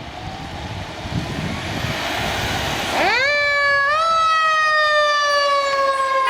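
Fire engine siren sounding over road noise. About three seconds in, the siren tone jumps sharply up in pitch, then slowly falls, with a brief lift a second later.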